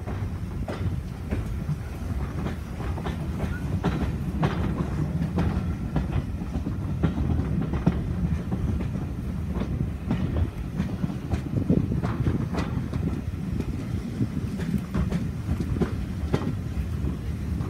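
Passenger train running along jointed track, its carriage wheels clattering over the rail joints in irregular clicks above a steady low rumble, heard from an open carriage window.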